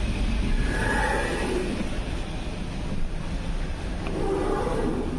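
Steady low rumble of a moving train heard inside an LHB passenger coach.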